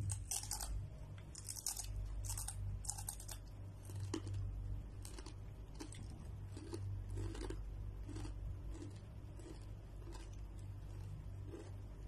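Someone chewing Doritos tortilla chips: a run of crisp crunches in the first few seconds, then softer, scattered chewing. A low steady hum underneath.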